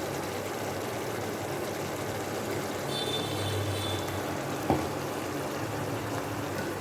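Curry masala with a little water cooking in a pan, giving a steady sizzling, bubbling hiss over a low steady hum. One short knock about two-thirds through.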